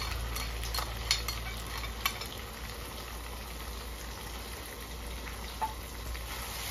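Pork pieces sizzling as they fry in a black wok over a wood fire, the meat half-fried and freshly seasoned. A few sharp metal clicks of a ladle against the bowl and wok come in the first two seconds and once more near the end as the stirring begins.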